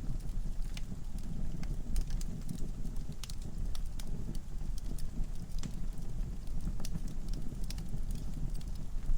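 Log fire in a fireplace crackling: many irregular sharp snaps and pops over a steady low rumble of the flames.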